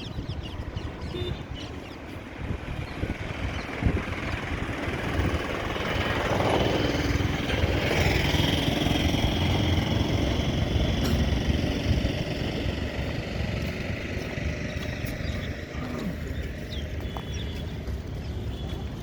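Wind buffeting the microphone over road traffic. About six seconds in, a motor vehicle passes close by, its engine note falling as it goes past.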